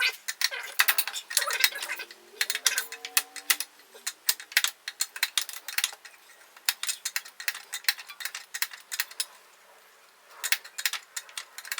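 Hand socket ratchet clicking in quick runs as a 22 mm fastener on the exhaust crossover pipe is worked loose, with short pauses between runs. A brief squeak sounds about two seconds in.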